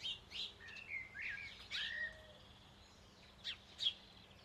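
Small birds chirping and whistling: short chirps and rising and falling whistles in the first two seconds, a short pause, then two sharp chirps about three and a half seconds in.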